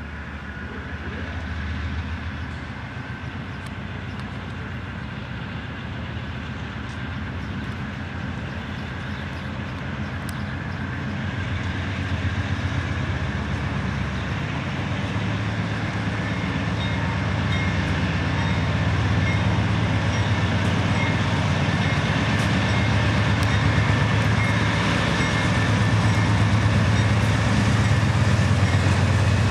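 Diesel-electric freight locomotives approaching at the head of a train, their engines running with a low rumble that grows steadily louder as they near.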